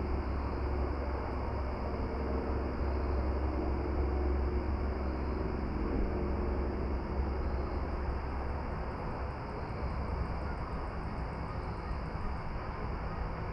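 Steady outdoor ambience: a low rumble with a hiss over it. In the second half, a faint, rapid, high ticking comes in for a few seconds.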